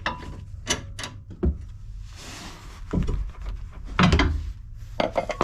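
A series of separate sharp knocks and clunks from tools and parts being handled at a car's front suspension. There is a short scraping rush about two seconds in, and the loudest clunk comes about four seconds in.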